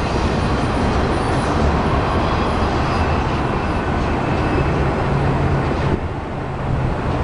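Steady rumble of a short freight train headed by an SD50 diesel locomotive rolling away down the line, with a brief dip about six seconds in.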